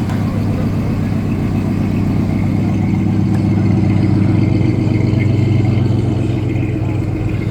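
A car engine running steadily with a deep, low-pitched sound. It grows a little louder for a couple of seconds near the middle.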